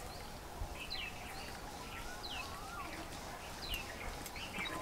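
Birds calling outdoors: a series of short chirps, each sliding downward in pitch, repeated every second or so over faint background noise.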